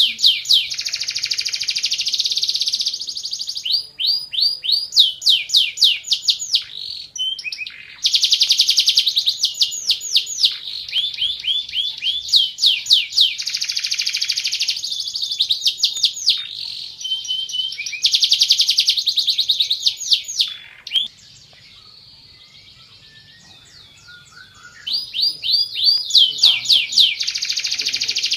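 Domestic canary singing long, rapid trills of repeated sweeping notes, in phrases broken by short pauses. The song drops away for a few seconds and starts again near the end.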